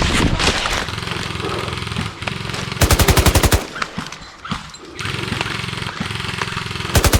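Airsoft rifle firing two short full-auto bursts of rapid shots, about three seconds in and again near the end.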